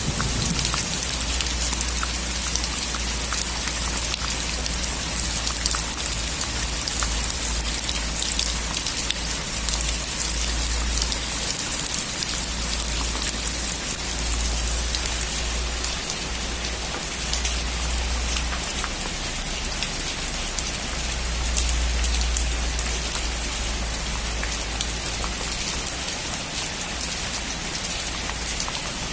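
Heavy rain falling steadily on a metal roof: an even hiss with many small ticks of single drops hitting the sheet metal.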